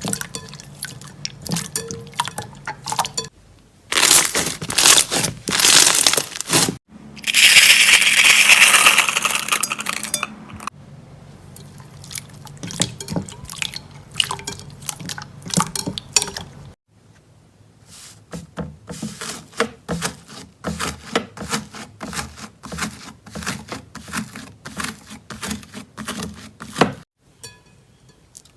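Slime being squeezed, poked and stretched by hand across several short clips: sticky clicks, pops and squelches, with a loud stretch of dense crackling in the middle, typical of crunchy slime.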